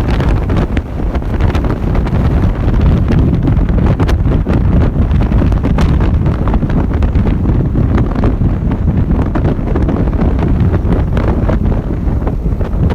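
Heavy wind buffeting the microphone while riding a motorcycle: a loud, steady, blustery rumble with scattered crackles.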